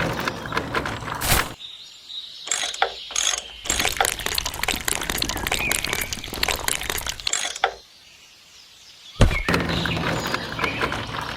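Small mechanism rattling with rapid clicks, in several abruptly cut sections, with a quieter gap about eight seconds in.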